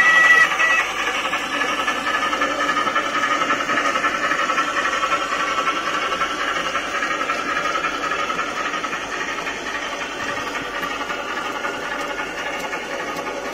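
A mixed goods train of wagons running past on the track, a steady rumble and hiss that slowly fades as the train moves away. A high steady tone stops within the first second.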